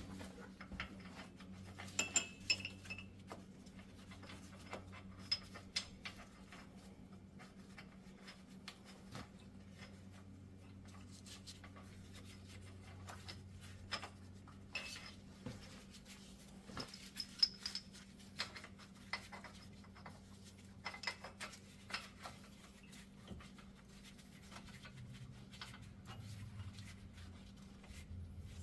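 Scattered light metallic clinks and taps of steel bolts and hand tools while the hub bearing's bolts are started by hand, some clinks ringing briefly. A faint steady low hum runs underneath.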